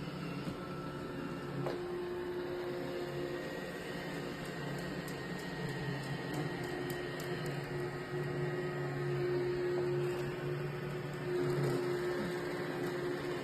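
Steady machine hum with a few held tones and mild swells in level.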